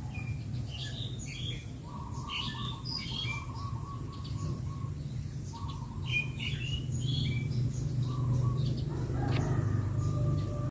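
Small birds chirping: many short, high calls and a few held whistled notes, over a steady low rumble.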